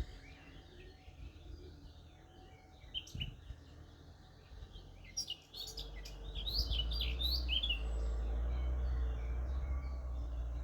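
Wild birds chirping in short high bursts, a cluster about halfway through. Under them a distant vehicle's low rumble swells about halfway in and holds steady.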